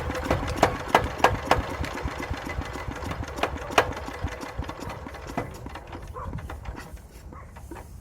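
An old Daedong power tiller's single-cylinder diesel engine running with loud, uneven knocks that thin out and die away near the end.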